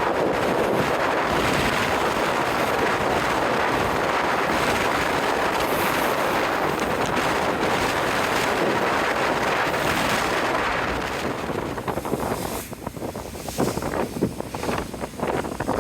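Strong wind buffeting the microphone aboard a moving car ferry, mixed with the rush of sea and wind. It is steady at first, then turns gusty and uneven in the last few seconds.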